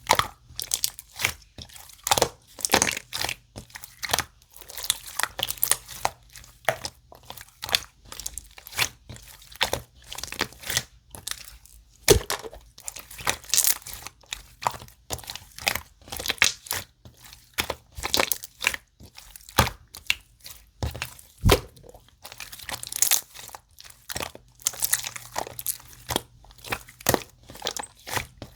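Slime being squeezed and pressed by hand, giving a dense, irregular stream of crackling, popping clicks, with a couple of louder pops.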